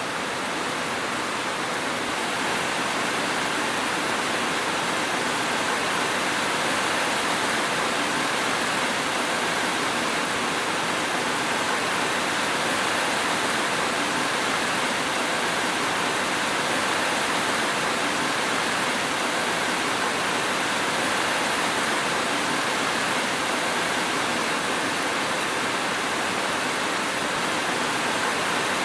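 Rain falling steadily: a dense, even hiss with no thunder and no single drops standing out.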